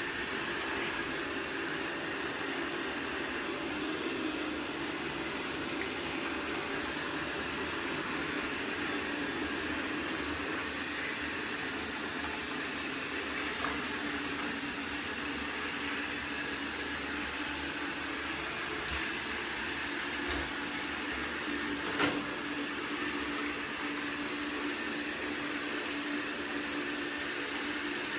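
iRobot Roomba Combo 405 robot vacuum running with a steady whir and hum, with a sharp click about two-thirds of the way through.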